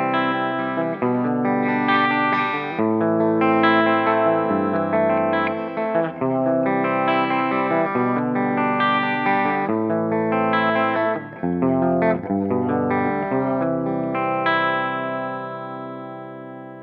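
Electric guitar played clean through a digital modeller's Mesa/Boogie Mark-series clean-channel amp emulation: a run of chords, the last one left ringing and fading near the end.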